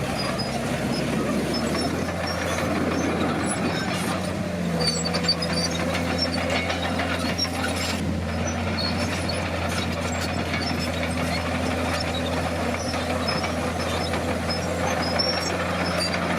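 Komatsu D50P bulldozer's diesel engine running steadily under work, with scattered light metallic clinks.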